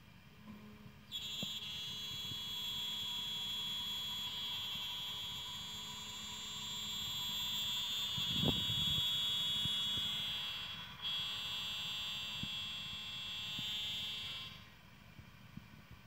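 High-speed spindle of a CNC lock-slot milling machine running with a steady high-pitched whine that starts about a second in, dips briefly two-thirds of the way through and stops near the end. There is one low thud near the middle.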